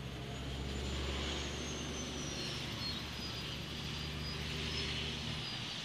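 Distant diesel train approaching along the track: a steady low engine drone with a thin high whine that slowly drifts down in pitch. The drone drops away about five seconds in.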